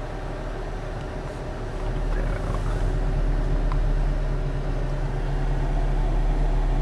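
Low steady drone of a car's engine and road noise heard from inside the cabin, growing louder about two seconds in.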